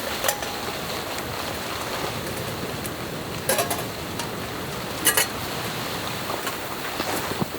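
Steady hiss of precipitation pattering on the tent, with a few sharp clinks of kitchenware being handled, two of them close together about five seconds in.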